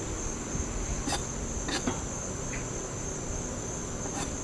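Steady high-pitched drone of outdoor insects, unbroken throughout, with a few sharp clicks about one, two and four seconds in.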